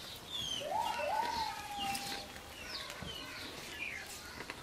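Birds calling: short high chirps that fall in pitch, repeated throughout. About half a second in, a louder call swoops up and holds a level pitch for about a second.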